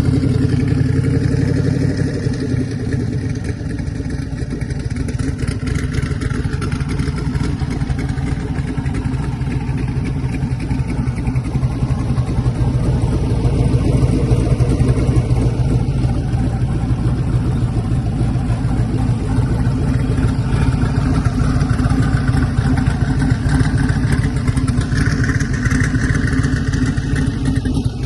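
Twin-turbocharged LS V8 engine of a 1932 Chevrolet sedan rat rod running steadily with a low rumble, just after a fuel-injected start.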